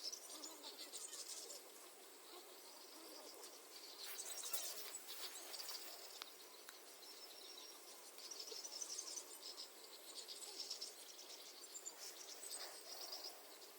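Insects, crickets or bush-crickets, trilling faintly in rapid high-pitched pulsed trains that start and stop several times, with a brief rush of noise about four seconds in.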